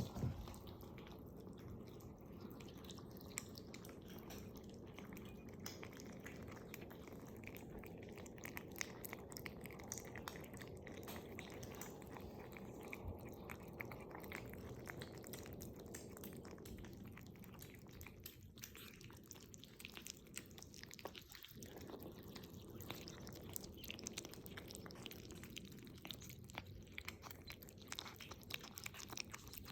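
Kitten chewing and munching its food: a quick, continuous run of small clicks and smacks over a low steady hum.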